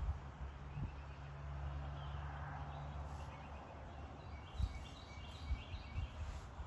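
Outdoor garden ambience with a bird chirping a run of short repeated calls in the second half, over a steady low rumble early on and a couple of soft thumps.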